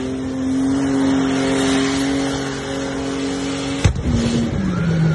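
Car engine held at steady high revs through a burnout, wheels spinning in tyre smoke. About four seconds in there is a sharp crack, and the revs then drop in two steps.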